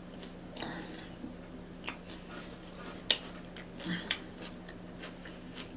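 Person chewing a tuna sub sandwich with the mouth close to the microphone: scattered short wet mouth clicks, the sharpest about three and four seconds in, over a faint steady hum.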